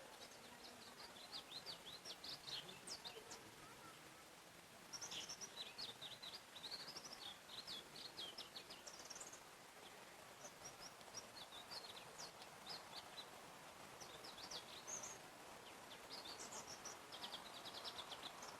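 Songbirds singing in a forest: several phrases of quick high chirps and trills, repeated every few seconds over a faint steady background hiss.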